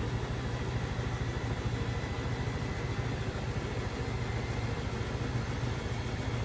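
Beko WMB 71643 PTE front-loading washing machine running steadily: a constant low motor hum with a faint high whine above it.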